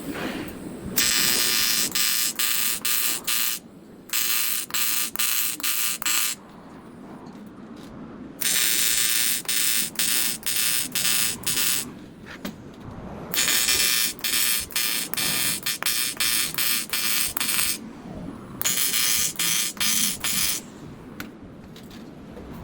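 AC TIG welding arc on aluminum, buzzing harshly in five runs of a few seconds each with short pauses between. Each run pulses with brief dips about three times a second.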